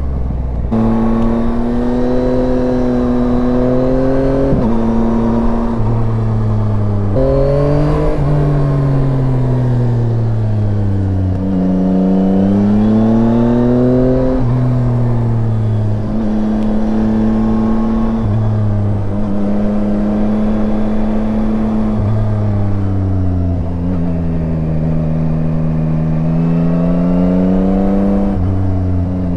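Yamaha Tracer 9's three-cylinder engine running under way, its pitch rising and falling with the throttle and stepping suddenly at several gear changes.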